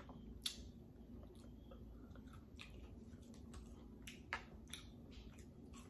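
Faint eating sounds: a person chewing fried chicken fingers, with scattered sharp mouth clicks, the clearest about half a second in and just past four seconds.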